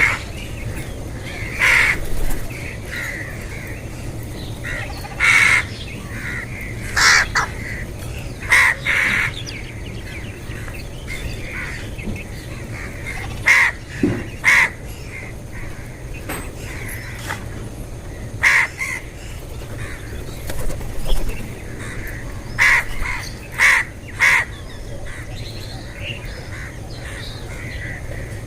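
Crows cawing: about a dozen short, harsh calls, single or in quick pairs a second to several seconds apart, over a steady low background hum.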